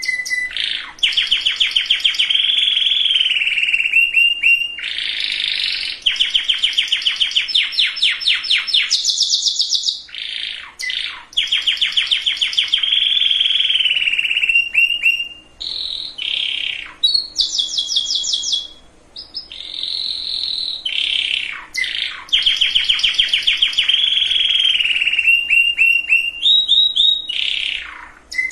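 Domestic canary singing a long song of rapid rolling trills. Each phrase is a fast run of repeated notes that shifts to a new pitch every second or two, broken by a few short pauses and quick falling notes.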